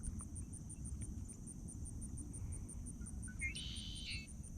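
Insects chirping in a steady, high-pitched pulse, about five chirps a second, over a low outdoor rumble. A short high call sounds briefly about three and a half seconds in.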